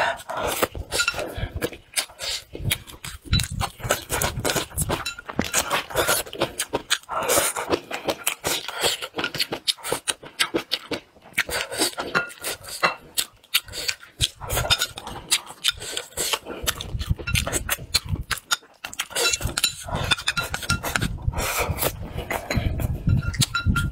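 Close-miked chewing and lip-smacking of a mouthful of rice and fish, with chopsticks clicking against the bowl now and then.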